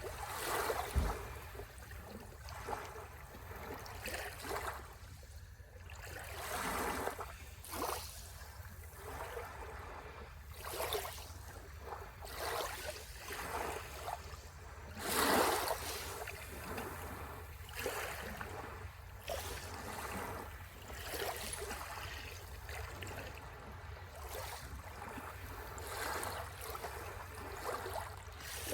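Small waves washing and lapping against the shore in irregular swells, the biggest one about halfway through.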